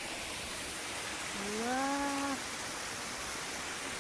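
Steady rush of a small waterfall and its stream. About a second and a half in, a woman lets out a long, slightly rising "uwaa" of awe.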